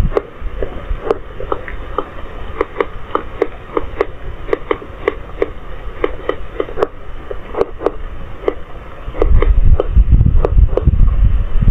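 Raindrops striking the CCTV camera's housing, heard through its built-in microphone as irregular sharp ticks, several a second. Low wind rumble buffets the microphone, picking up strongly about nine seconds in.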